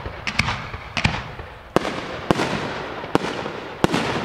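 100 mm display fireworks shells fired in a stepped sequence: a run of about eight sharp bangs, roughly two a second, with crackle and rumble hanging between them.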